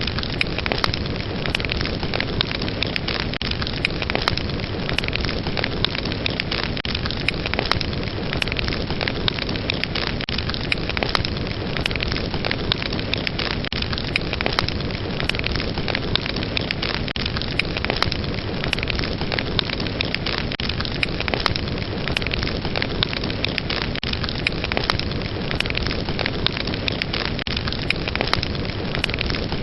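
Fire burning with a steady rushing hiss and frequent sharp crackles and pops.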